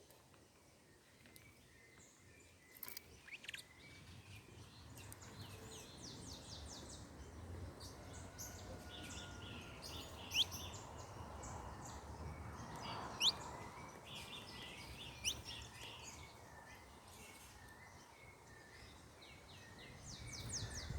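Several small birds chirping and calling in quick short notes, with a few sharp rising chirps standing out, over a steady low rumble.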